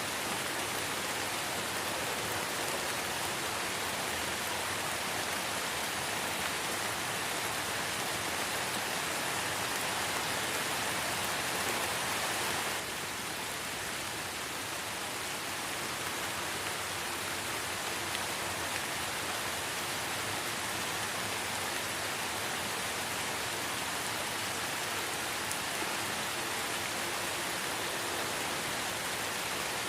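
Light rain falling in a forest: a steady, even hiss of many drops with no separate patters standing out. About thirteen seconds in it drops a little in level and carries on.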